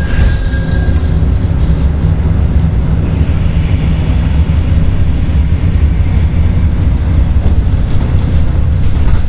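Seoul Metro 1000-series resistor-controlled electric train running along the line: a loud, steady low rumble of wheels on rail and running gear, heard from inside the car.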